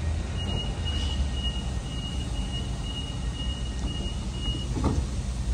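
Train running with a steady low rumble, and a flat high-pitched squeal that holds for about four seconds with small breaks, then a single knock near the end.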